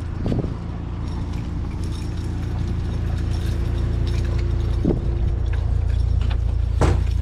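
A heavy piece of metal scrap knocking and clanking as it is wrestled up toward a pickup bed: a few separate knocks, the loudest near the end, over a steady low rumble.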